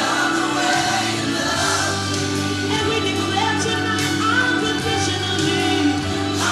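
Live gospel music: a band playing under sung vocals, with choir or congregation voices joining in.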